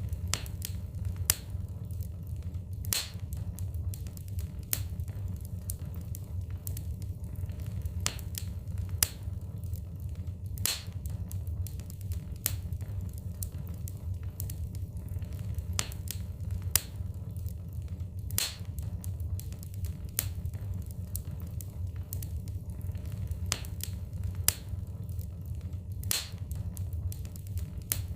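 Wood fire burning in a fireplace, crackling with sharp pops every second or two over a steady low rumble.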